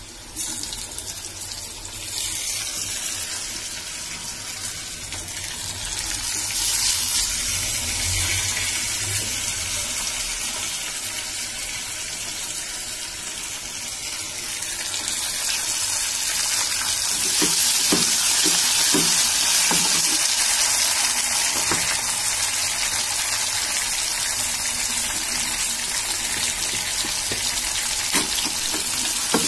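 Chopped tomatoes sizzling as they fry in hot oil with browned onions in a pan: a steady hiss that starts suddenly as they go in and grows louder a few seconds later.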